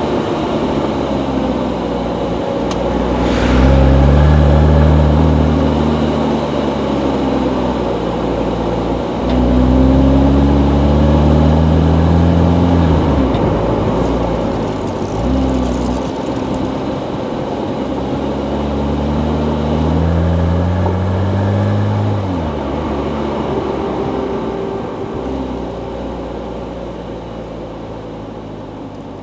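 Porsche 356 Speedster replica built on a Porsche Boxster, its engine accelerating hard through the gears. The pitch climbs and drops back at each upshift, about four times, then the engine settles lower and quieter near the end.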